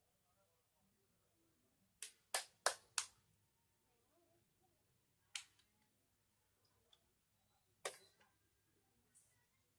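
Sharp clicks or taps over near silence: four in quick succession about two seconds in, then single ones a little past five seconds and near eight seconds.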